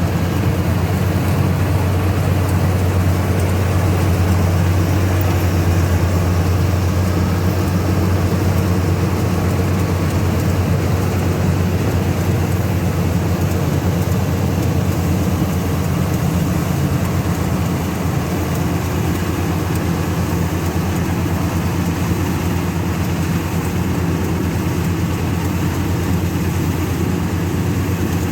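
Combine harvester running steadily while harvesting rice: a constant low engine drone with machinery noise over it.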